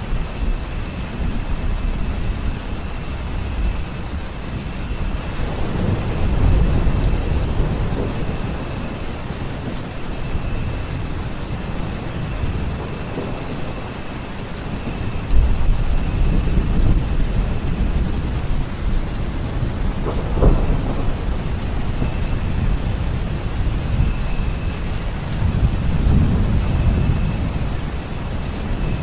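Steady heavy rain falling, with low thunder rumbling on and off and swelling several times.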